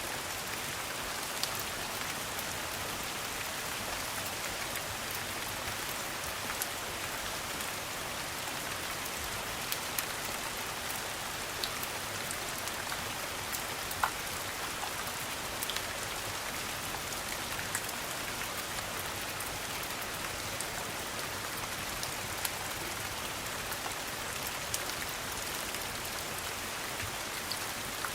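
Steady rain, an even hiss without letup, with scattered sharp ticks and pops, the loudest about halfway through.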